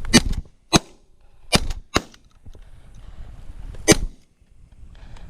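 Shotgun shots at incoming mourning doves: five sharp blasts in about four seconds, two of them close together in the middle and the last one about two seconds after those.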